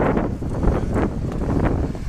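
Wind buffeting the microphone: a loud, gusty rumble with uneven puffs.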